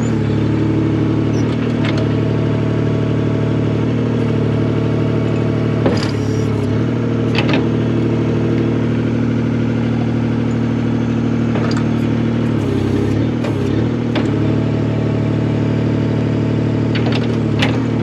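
Skid steer engine running steadily, with a few sharp clicks or knocks over it. About two-thirds of the way in, the engine note dips briefly.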